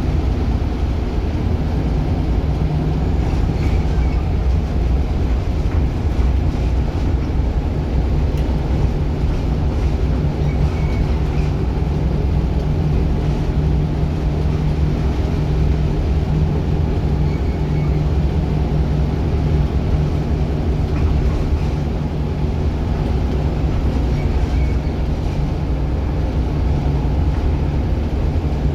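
Scania Solar single-decker bus engine running steadily, with a constant low drone and rumble.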